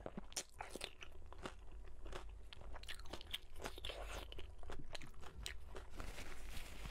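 Close-miked chewing and crunching on a mouthful of braised pork, with many short, sharp, wet mouth clicks.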